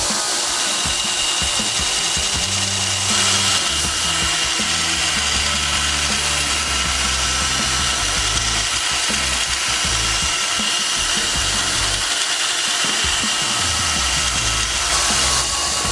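Electric power tool running steadily on the steel spike knife, a continuous whine with no hammer blows, over background music.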